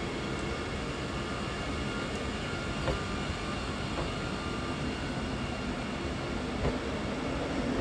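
Vande Bharat electric multiple-unit train rolling past: steady rumble of wheels on the rails, with two brief knocks.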